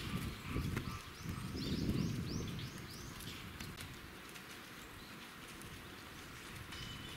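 A small bird calls a quick run of about eight short, high, arched notes from about one to three seconds in. Under it, low irregular rustling and thumps fill the first three seconds before fading to quiet outdoor ambience.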